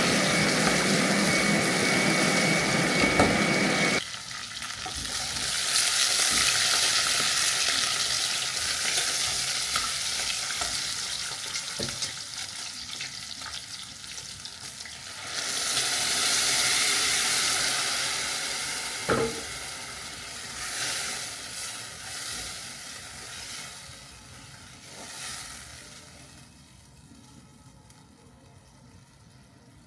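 A kitchen blender runs with a steady whine and cuts off suddenly about four seconds in. Then food sizzles and fries in a pan, swelling louder twice and fading away near the end.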